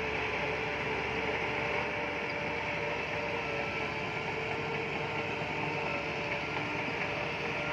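Bulldozer working: its diesel engine running steadily under load, with a continuous mechanical clatter of machinery.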